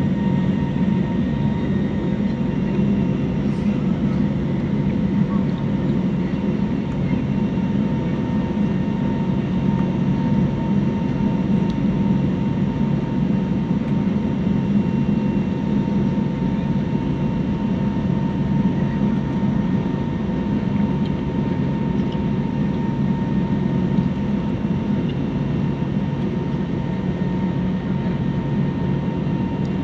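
Steady drone of an airliner's engines heard inside the passenger cabin during the climb after takeoff, a deep even rumble with faint steady whining tones above it.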